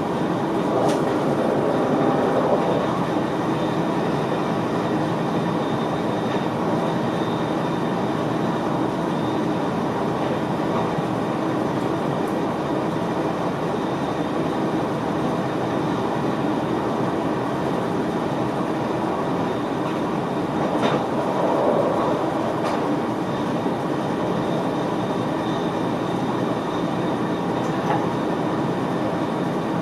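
Steady running noise heard inside the driver's cab of an NS VIRM double-deck electric train under way, the rumble of wheels on rail with a faint high whine. A few brief clicks are heard over the wheels, about a second in, near the middle, and twice a little after two-thirds of the way.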